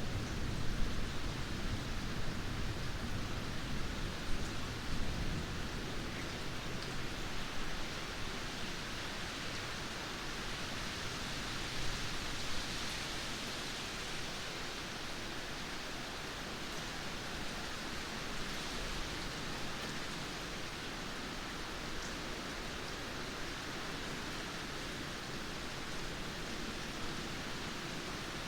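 Steady heavy rain, an even hiss, with a low thunder rumble dying away over the first several seconds.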